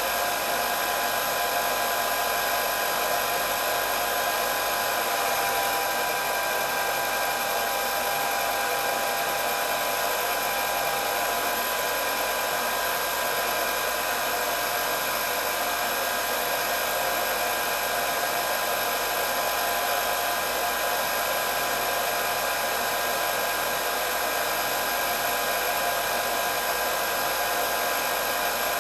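Electric hair dryer running continuously: an even whirring blow of air with a steady high motor whine over it, unchanging throughout.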